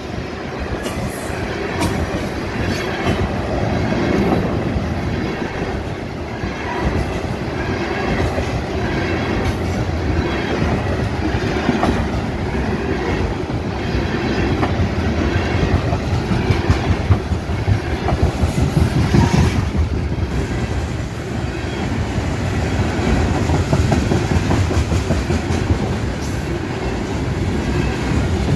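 CSX freight train of tank cars rolling past: a steady rumble of steel wheels on rail with repeated clickety-clack as the wheels cross rail joints.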